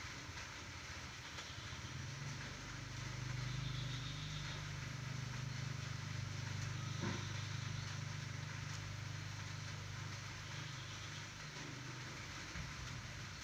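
A motor vehicle's engine humming low, swelling for a few seconds and then fading.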